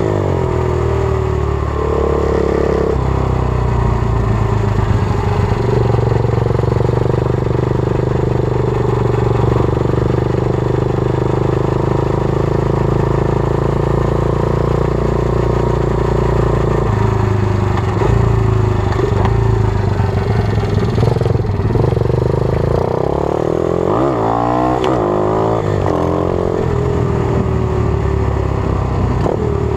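120cc pit bike's single-cylinder four-stroke engine under way, held at steady revs for a long stretch, then revving up and down several times about 24 seconds in before settling again.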